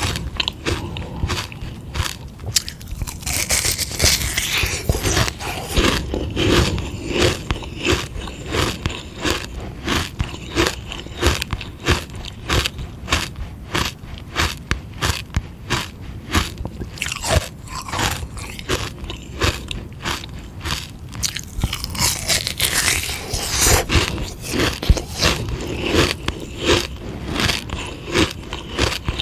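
Frozen sugar-water ice lolly being bitten and chewed close to the microphone: many sharp, crackly crunches, several a second, with no break.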